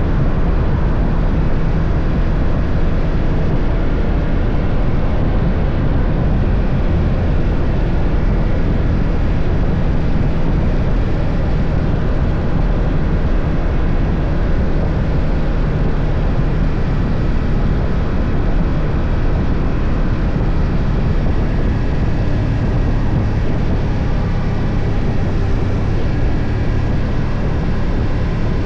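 BMW F 800 GS parallel-twin engine running at a steady pace while riding, under a heavy, even rush of noise.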